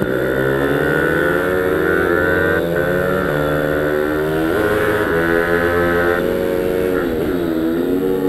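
Pit bike engine running hard on a track: the revs climb, dip briefly at gear changes and climb again, falling away about seven seconds in before rising once more.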